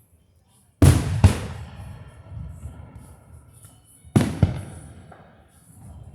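Fireworks bursting overhead: two sharp booms in quick succession about a second in, then another pair about four seconds in, each trailing off in a rumbling echo.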